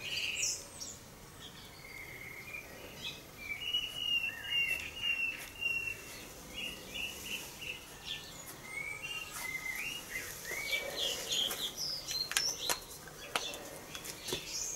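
Small birds chirping in short, repeated calls, with a few sharp clicks near the end.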